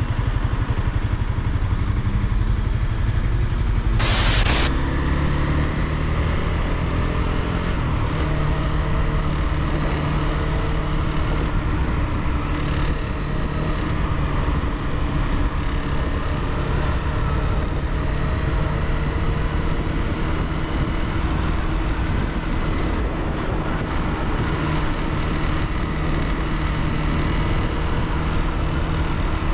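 Honda CBR300R's single-cylinder engine running under way while being ridden, with a short loud rush of noise about four seconds in; right after it the engine note climbs in pitch as the bike picks up speed, then settles into steady cruising.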